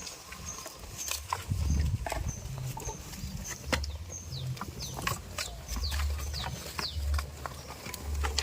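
Farmyard animal sounds: short, high, falling chirps repeat throughout, with scattered sharp clicks and knocks over a low rumble.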